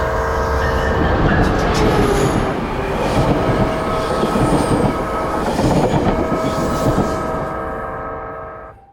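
Train running past: a dense rumble and rail noise with several steady held tones over it, fading out near the end.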